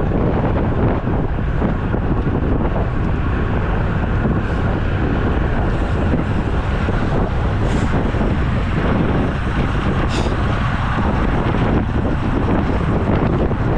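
Wind buffeting the microphone of a camera on a moving road bicycle: a steady, loud rumbling rush.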